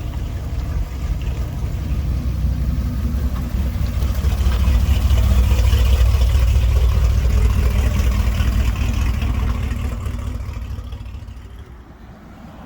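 A car's engine rumbling as it drives up close, growing louder to a peak around the middle and then fading away near the end.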